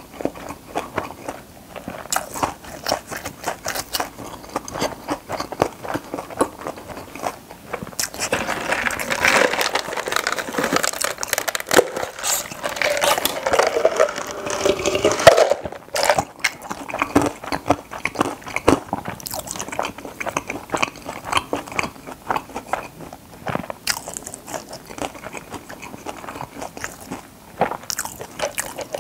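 Close-miked mouth sounds of eating a crispy fried-chicken-patty burger: wet chewing with crunching and smacking. About halfway through come swallowing gulps while drinking from a paper cup.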